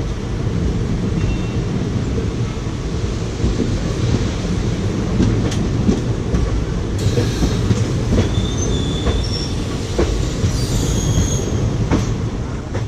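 Passenger coaches of a passing train running by at close range: a steady heavy rumble of wheels on rail, with a few sharp clicks over rail joints. Thin, high wheel squeals come in between about seven and eleven seconds in.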